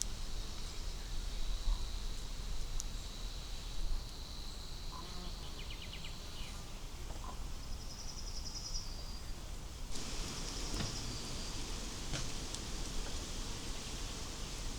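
Outdoor countryside ambience with an insect's steady, thin, high buzz for the first half, then a few short, high, pulsed trills. A low rumble of background noise runs underneath and steps up slightly about two-thirds of the way in.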